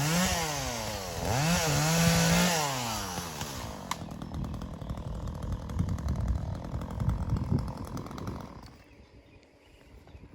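Chainsaw revving up and down several times, then running at a lower speed until it cuts out about nine seconds in.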